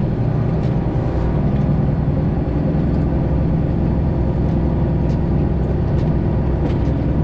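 Semi truck's Detroit Diesel 12.7-litre engine running steadily with a deep, even drone.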